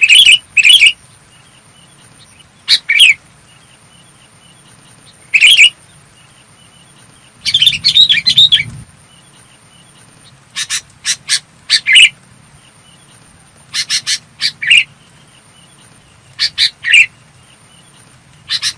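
Sooty-headed bulbul singing: short, clear, bubbly phrases every two or three seconds, with a longer, busier run about eight seconds in.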